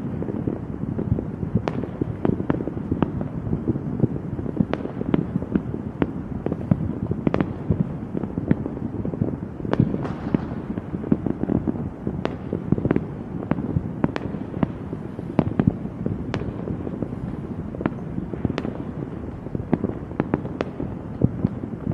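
Fireworks going off without a break: a dense run of low booms with many sharp cracks, several a second.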